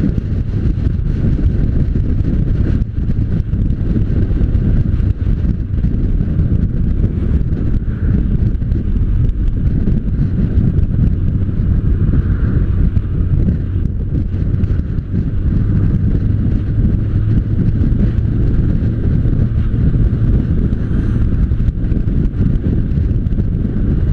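Wind buffeting the microphone over a motorcycle engine running steadily.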